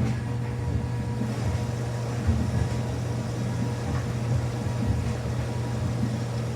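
A steady low mechanical hum with a few soft knocks.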